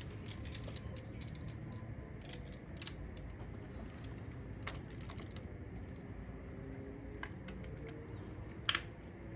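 Scattered light metallic clicks and clinks of hand tools being handled at the engine during a spark plug change, irregular and spaced out, with a few sharper clicks.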